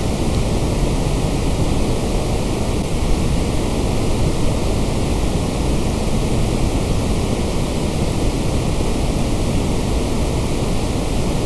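Steady, unchanging hiss of generated white noise, without any rise, fall or break.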